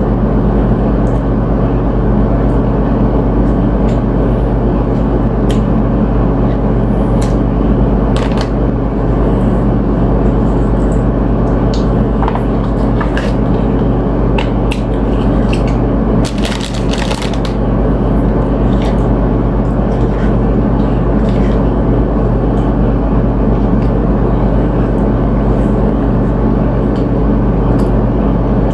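A steady, loud low mechanical drone throughout, with scattered crunches and clicks from tortilla chips being eaten, the busiest cluster about two-thirds of the way through.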